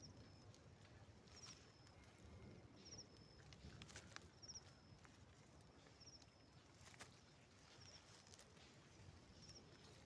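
Faint, high-pitched animal call, a quick trill ending in a short held note, repeating about every one and a half seconds over quiet outdoor ambience with scattered faint clicks.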